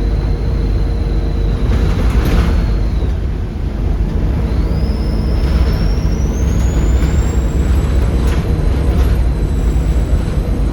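Volvo B7RLE bus's 7.3-litre Volvo D7C diesel engine pulling under load, with its turbocharger whistle rising in pitch from about halfway through and then holding high as the turbo spools up. A few brief hisses come through over the engine.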